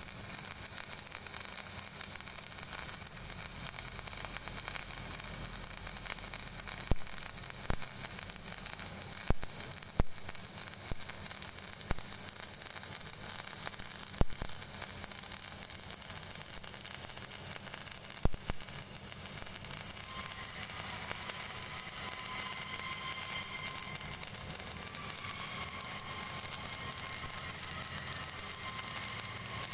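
Electric welding arc crackling and hissing steadily as a bead is laid, with scattered sharp pops. A faint high whine joins about two-thirds of the way through.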